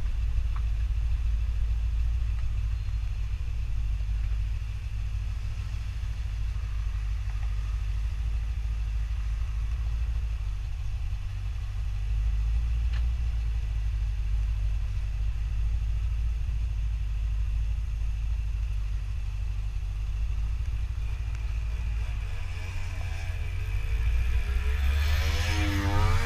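Ginetta sports car's engine running at low revs, a steady low rumble; near the end it revs up, its pitch rising and falling.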